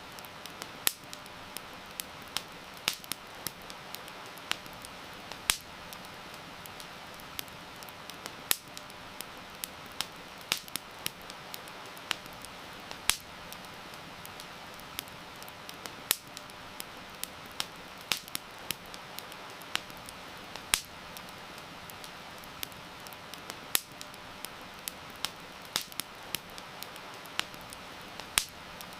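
Wood campfire crackling, with sharp irregular pops and snaps, a few much louder than the rest, over a steady even hiss of rain.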